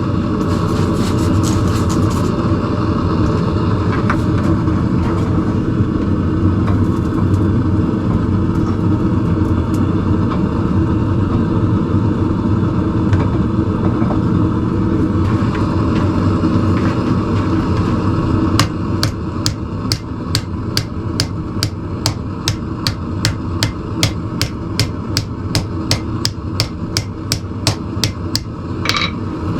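Hand hammer striking hot steel on an anvil, shaping the jaws of blacksmith tongs: a few sharp taps near the start, then a steady run of blows at about three a second through the last ten seconds or so, over a continuous steady roar.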